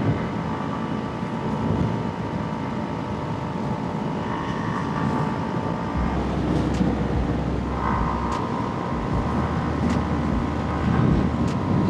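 Kawasaki Ninja 300's parallel-twin engine running on the move, its note shifting several times as the revs change, with wind noise on the microphone.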